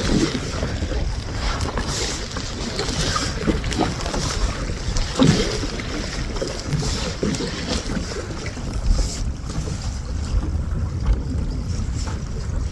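Wind buffeting the microphone in a steady low rumble while a kayak is paddled into a headwind. The splash and wash of paddle strokes and water against the hull come and go over it.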